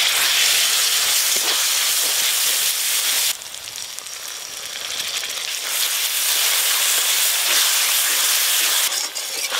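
Spice masala sizzling hard in hot oil in an aluminium kadai. A little over three seconds in, the sizzle drops suddenly as a milky liquid is poured in. It then gradually builds back as the mixture fries and is stirred with a metal spatula.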